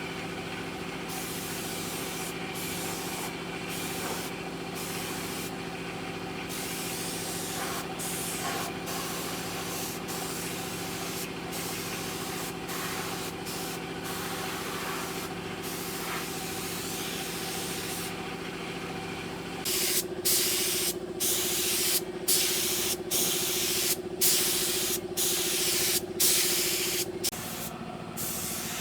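Compressed air hissing from an air tool, broken by short pauses, over the steady hum of a motor such as an air compressor's. About two-thirds of the way in, the hiss gets louder and comes in short bursts about twice a second.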